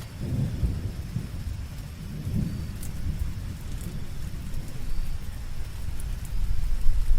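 Steady rain falling, with a deep low rumble that swells and fades and grows strongest near the end. A few faint, short high chirps sound over it.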